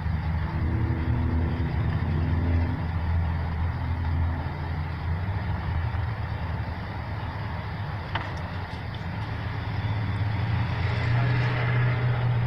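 Motor vehicle engines and road traffic running, with a steady low hum whose pitch shifts about eleven seconds in. A single sharp click comes about eight seconds in.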